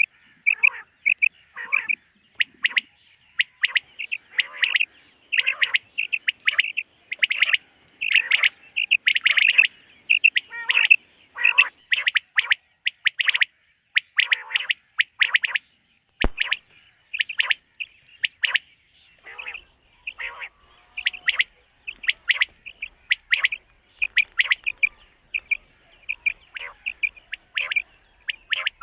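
Common quail calling over and over, short high notes in quick series with brief pauses between runs. A single sharp click sounds about two-thirds of the way through.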